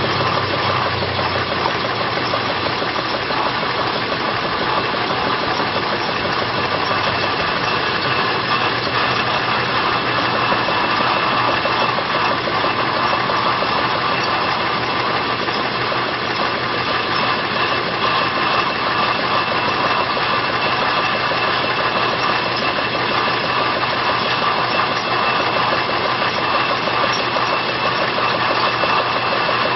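Steam engine running steadily as a blower, pushing air out through an outlet in its shaft, with a continuous rushing hiss. A low hum drops away about seven seconds in.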